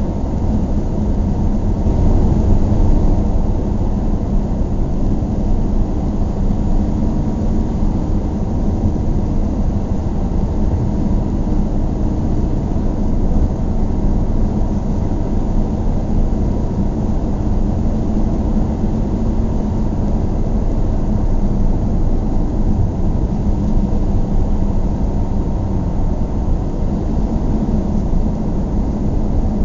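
A car being driven at a steady pace: a constant low rumble of engine and road noise that stays even throughout.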